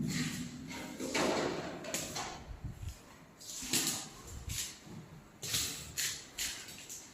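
A string of short scrapes and knocks from parts being handled while a fire pump motor is worked on, roughly a dozen spaced irregularly over several seconds.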